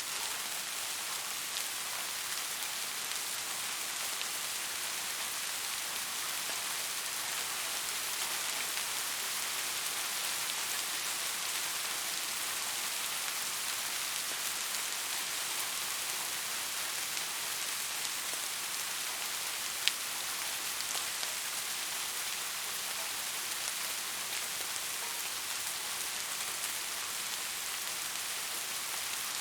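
Steady rain falling, an even hiss with scattered drop ticks, and one sharper tick about twenty seconds in.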